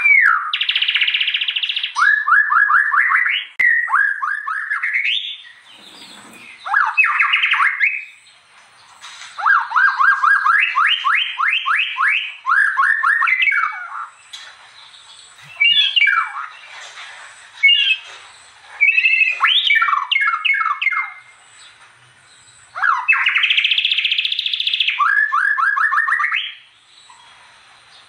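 White-rumped shama (murai batu) in full song: loud, varied phrases of fast repeated notes and dense buzzy bursts, broken by short pauses.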